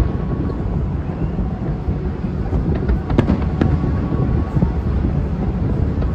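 Aerial fireworks heard from afar: a continuous deep rumble of shell bursts, with a couple of sharp cracks about three seconds in.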